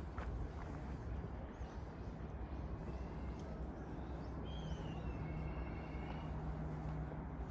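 Outdoor ambience: a steady low rumble, with a thin, high whistling call in the middle and a faint steady hum joining about halfway.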